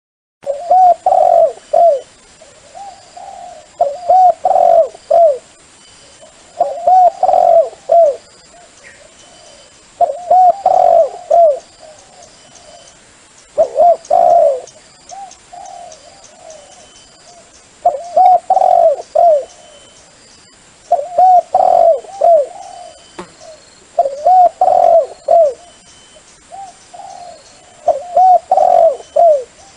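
Dove cooing, a recorded call for luring doves to a decoy trap: loud phrases of several quick coos, repeated about every three seconds, with fainter coos in between.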